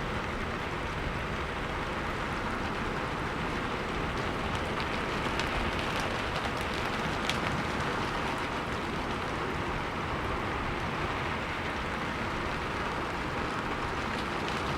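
Steady rain falling: an even, dense hiss of drops, with a few sharper single drop ticks standing out in the middle.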